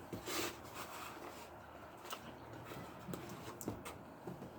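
Eating sounds: a short crunch near the start and scattered faint clicks, from chewing chicken nachos.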